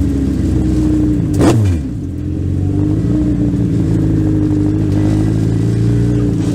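Legend race car's four-cylinder Yamaha motorcycle engine running at steady revs. About a second and a half in, another car goes past close by, a brief rush with a quickly falling pitch.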